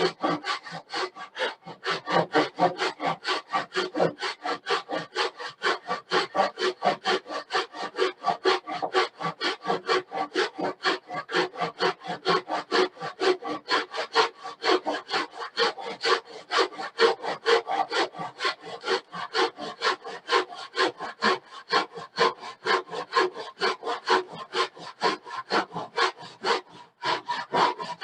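Hand saw crosscutting a wooden board to length, cutting on the waste side of the marked line, in steady back-and-forth strokes at about three a second, with a brief pause near the end.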